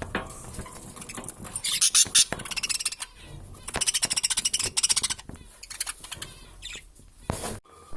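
Budgerigars chattering and warbling, with quick buzzy rattling trills in two bouts, about two and four seconds in.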